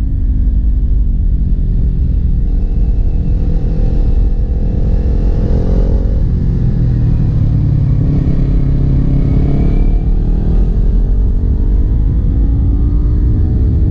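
Kawasaki Ninja 400's parallel-twin engine pulling uphill, its pitch climbing under throttle and falling back about six and ten seconds in, over a heavy low rumble.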